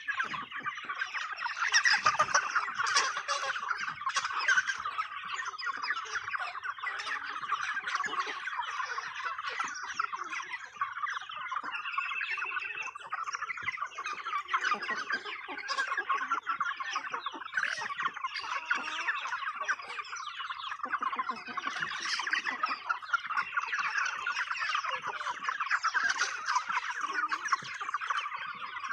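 A flock of chickens clucking and squawking all at once in a steady, busy chatter, crowding in while being fed treats.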